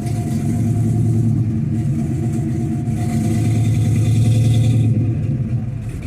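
Engine of a 1969 classic car running loudly with a steady low note. It grows louder about three seconds in and eases off near the end.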